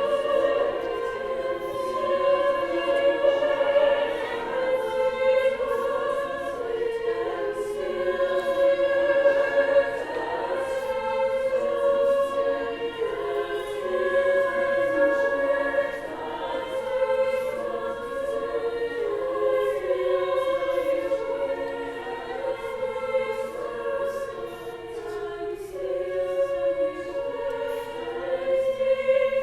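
High school choir singing in several parts, with held and shifting chords.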